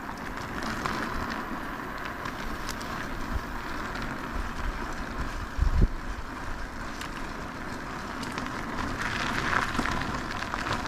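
Riding an e-bike: a steady rush of wind on the camera's microphone with tyre noise rolling over the path, and a single low thump about six seconds in.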